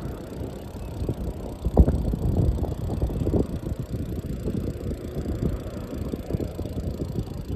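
Wind buffeting the microphone and rattling, knocking ride noise from a bicycle rolling along a street.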